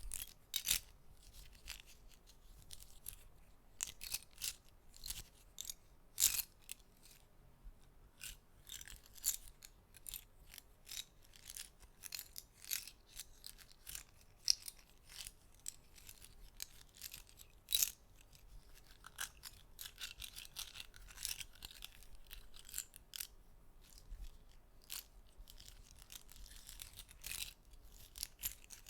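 Soft, irregular clicks and taps of small hard objects handled close to the microphone, a few a second, with brief stretches of light scraping between them.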